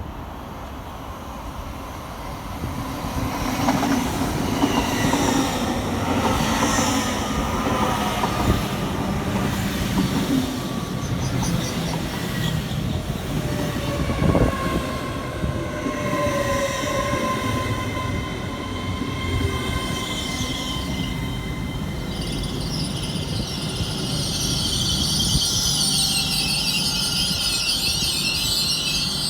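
Electric train running through the station, with steady whining tones and a high metallic squeal building over the last several seconds.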